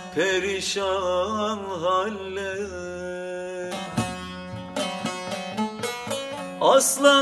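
A man sings a Turkish folk song over a plucked string accompaniment, his melody bending and wavering. The singing stops about halfway through, and the instrument plays on in a run of sharply plucked notes.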